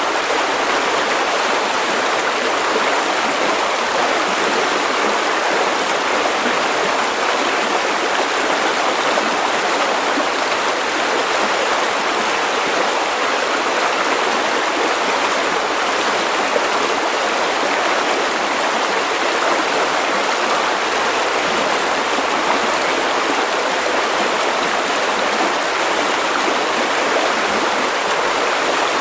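River water running over stones: a steady, even rushing and burbling that stays the same throughout.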